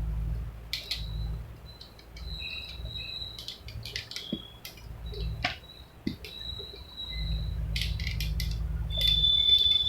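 Small birds chirping in short high calls, with scattered sharp clicks and a low rumble in the background.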